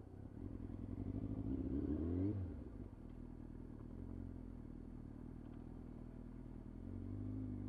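Motorcycle engine pulling away from a stop: it revs up with rising pitch for about two seconds, then eases off and runs steadily, and picks up again near the end.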